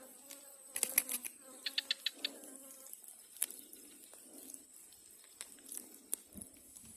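Faint scattered clicks and taps, several in quick succession about a second and two seconds in, over a steady high insect drone.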